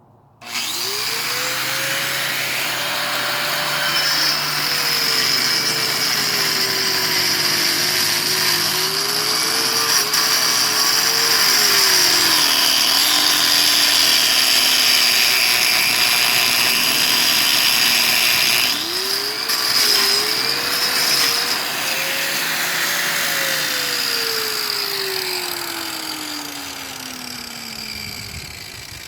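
Handheld electric power tool working on concrete, used in stitching a cracked basement wall. Its motor spins up quickly about half a second in, dips and recovers in pitch several times as it is loaded, and winds down slowly over the last five seconds, with a strong hiss throughout.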